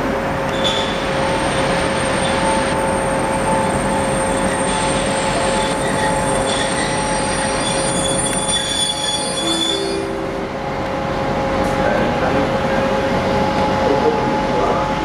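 ZSSK class 750 diesel locomotive hauling a passenger train, squealing with several steady high-pitched tones over its engine's rumble as it brakes to a stop. The highest squeal tones cut off about ten seconds in as the train halts, and a lower tone lingers a little longer.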